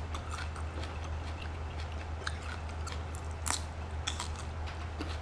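A person chewing and biting food, with scattered small mouth clicks and a sharper one about three and a half seconds in, over a steady low hum.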